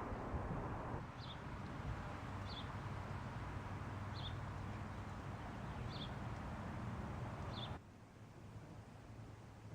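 A small bird giving a short high chirp five times, about once every second and a half, over a steady low background rush that drops away suddenly near the end.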